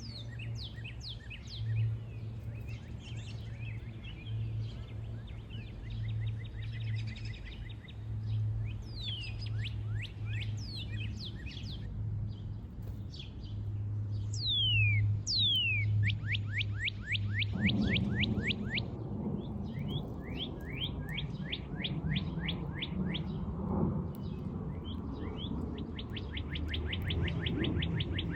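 Small songbirds chirping and singing: quick falling chirps and fast, evenly repeated trills, over a steady low hum. A low rumble comes in about two-thirds of the way through.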